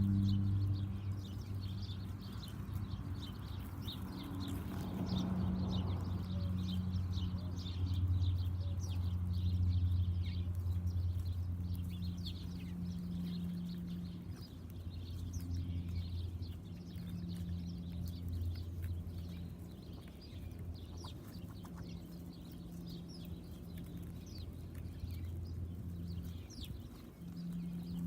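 Small backyard birds chirping, many short high calls in quick succession, over a steady low hum.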